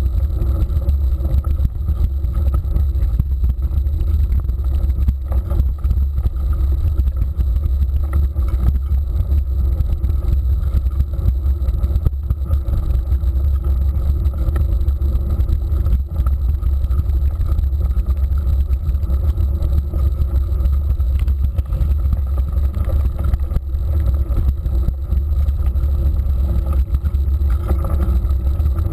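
Steady, loud low rumble of wind and riding vibration on the microphone of a camera carried on a moving mountain bike.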